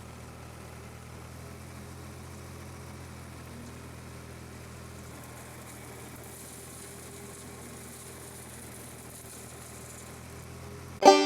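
Long 510 utility tractor engine running at a steady, even speed. Banjo music comes in sharply at the very end.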